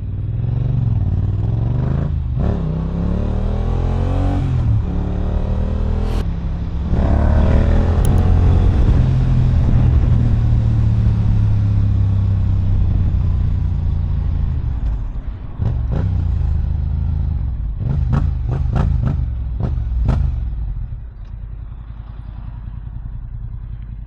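Yamaha R7's parallel-twin engine through an Akrapovic exhaust, accelerating hard with the revs climbing twice, then held at steady speed. Near the end come a quick run of sharp pops, then quieter running.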